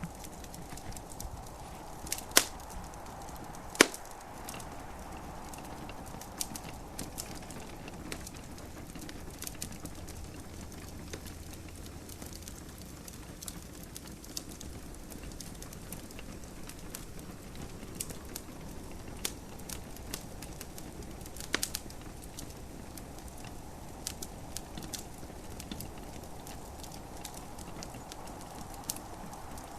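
Wood fire crackling in a fireplace, a stream of small snaps with a few sharp, loud pops, two in the first four seconds and another past the middle, over a steady hiss of gentle rain.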